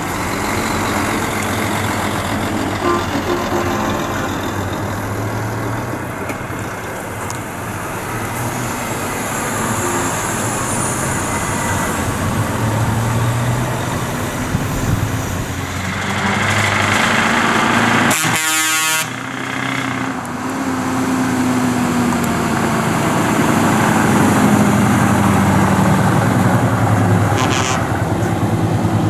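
Lorry engines running as trucks move past, the engine note rising and falling, with a short horn blast about eighteen seconds in.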